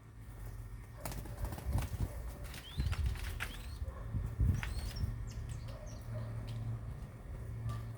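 Birds flapping their wings and moving about, with scattered clicks and knocks and a few short rising chirps, over a steady low hum.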